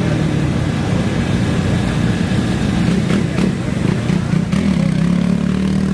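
Off-road racing motorcycle engines running and revving with a steady low engine note, broken by a few short sharp cracks around the middle.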